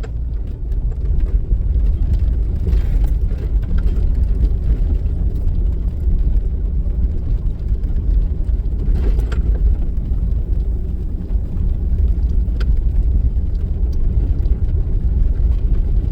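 Jeep driving through snow: a steady low rumble of engine and tyres, with a couple of brief knocks about nine and twelve seconds in.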